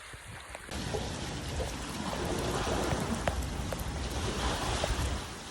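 Heavy rain falling: a steady hiss with scattered drip taps. It grows abruptly louder about a second in.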